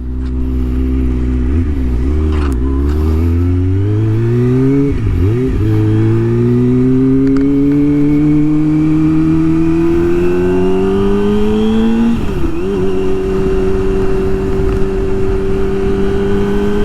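Kawasaki Ninja ZX-25R's 249 cc inline-four with a Yoshimura R-77 full exhaust, accelerating under way. Its pitch climbs, dips briefly at an upshift about five seconds in, climbs again, and dips at a second upshift about twelve seconds in. After that the engine holds a steady cruising note.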